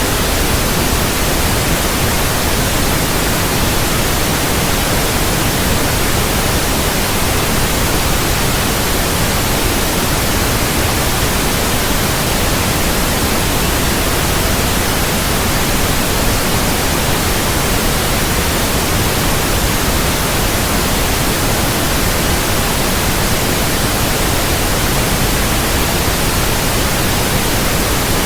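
Steady, loud white noise: an even hiss across all pitches with no change or pattern, generated as an infant sleep aid.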